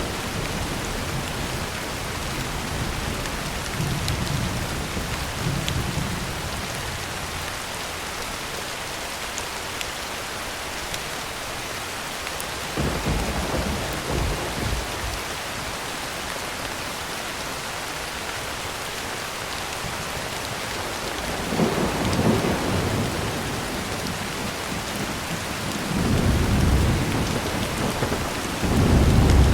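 Heavy rain falling on a tin roof as a steady hiss, with low thunder rumbling several times; the strongest rolls come near the end.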